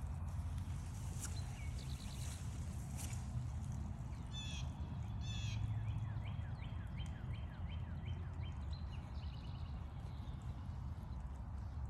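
Songbirds calling: a few short chirps, then a quick run of repeated downward-slurred notes lasting a few seconds, over a steady low rumble.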